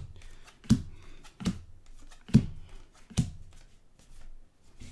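Trading cards being flipped and set down on a table one at a time: four short taps, about one every second, with quiet rustling of card stock between them.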